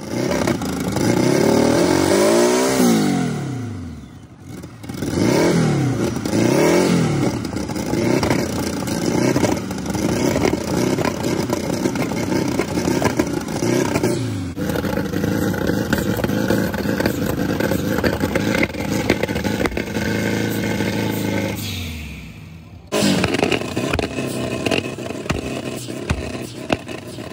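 A Nissan 350Z's V6 engine is revved hard several times, its pitch climbing and dropping with each blip. About halfway through, a modified Volkswagen Beetle engine takes over, running at a steadier pitch that gets louder near the end.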